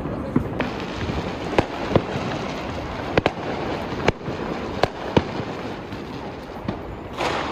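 New Year's Eve fireworks and firecrackers going off all around: about a dozen sharp bangs at irregular intervals over a steady background of distant crackling and popping, with a louder hissing crackle near the end.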